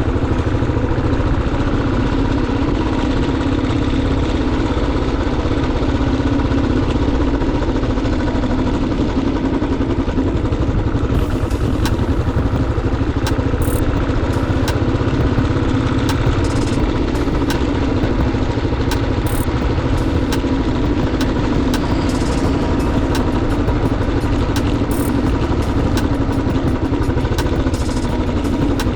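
Motorcycle engine running steadily without revving, with sharp ticks and clicks joining from about eleven seconds in.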